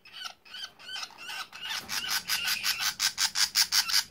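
Budgerigar chicks crying in fright. There are a few short chirps, then from about two seconds in a fast, steady train of harsh calls, about five a second, growing louder. These are the distress calls of frightened baby budgies.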